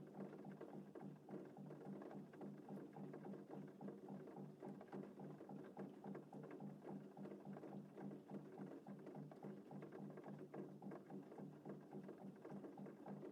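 Faint, gentle rain pattering steadily over a low, even hum.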